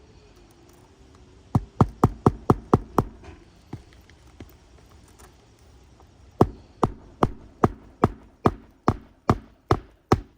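Hammer striking repeatedly, as in driving nails into a roof shingle: a quick run of about seven blows, a pause, then about ten slower, evenly spaced blows.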